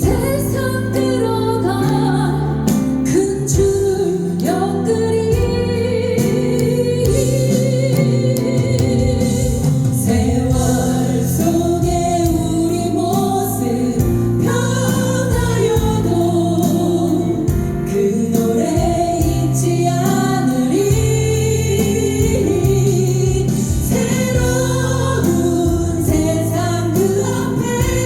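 A song sung live with instrumental accompaniment, the singing carrying a continuous melody over steady backing notes.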